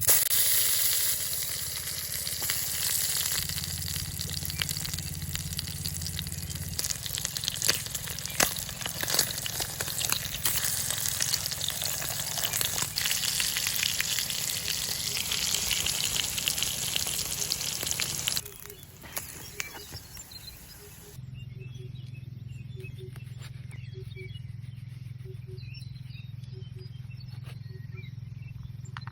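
Food sizzling and spitting in a hot pan, a dense crackle full of sharp pops, that stops about two-thirds of the way in. It is followed by a quieter outdoor ambience with a low steady hum and faint short calls repeating about once a second.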